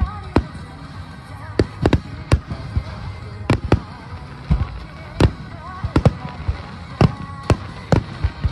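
Aerial fireworks shells bursting: about a dozen sharp bangs at uneven intervals, some in quick pairs, over a song with a singing voice played for a music-synchronised display.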